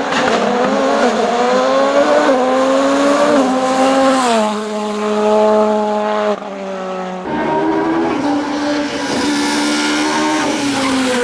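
Racing car engine at high revs, its pitch climbing and dropping through gear changes. It breaks off suddenly about six seconds in and comes back a second later, then falls away near the end.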